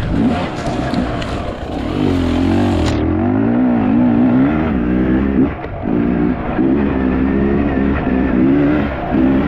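Enduro motorcycle engine revving up and down under the rider's throttle, its pitch rising and falling repeatedly, with a brief drop-off about five and a half seconds in.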